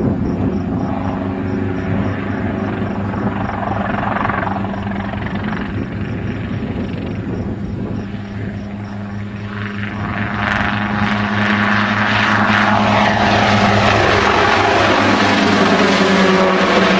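Aircraft engine running with a steady drone and a rapid beat from its rotor or propeller blades. It grows louder and brighter about ten seconds in.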